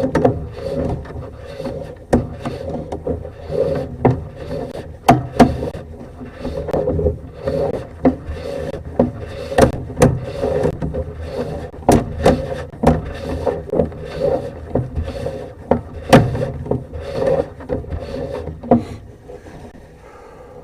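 Sewer camera push cable being handled at a cleanout: irregular rubbing and scraping strokes, several each second, with sharp clicks and knocks among them, dying away near the end.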